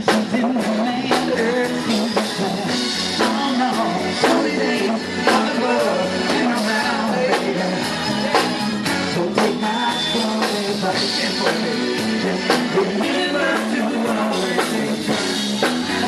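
A man singing over rock-and-roll music with a drum beat.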